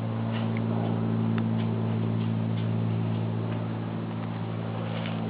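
Steady low hum with faint, irregular ticks and clicks over it.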